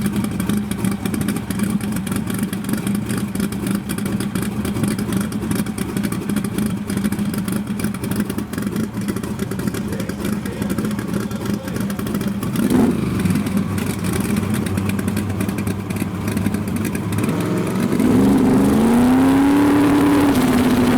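Drag race car engine idling with a steady, choppy note and a short blip about 13 seconds in. About 18 seconds in it revs up, the pitch rising smoothly and then holding steady at a higher, louder speed.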